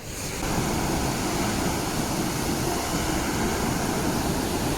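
Haew Narok waterfall's falling water making a steady, even rushing noise.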